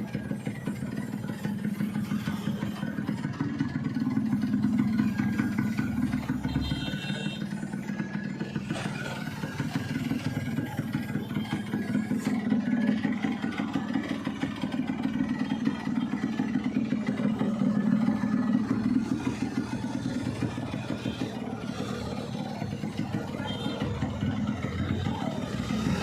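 Yamaha RX100's two-stroke single-cylinder engine running with a rapid, crackling exhaust note that swells several times as it is revved and then eases back.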